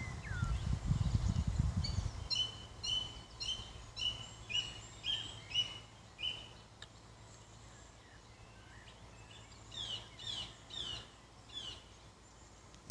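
Wild bird song: a run of about eight similar whistled notes, roughly two a second, then a few short falling notes near the end. A low rumble sits under the first two seconds.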